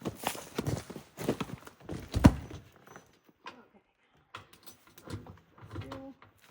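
Irregular metal knocks and clunks as a washer and wheel are fitted onto a generator's wheel-kit axle, the loudest knock a little over two seconds in, followed by a few lighter clicks.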